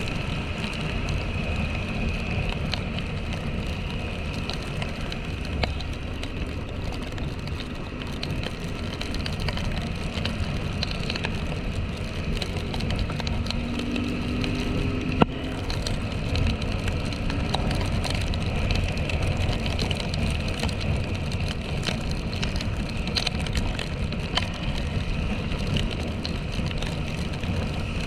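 Small single-cylinder motorcycle engine running steadily on a ride through rain, with a constant hiss of wet road and wind. A brief rising tone passes about halfway through, and there is a single sharp click shortly after.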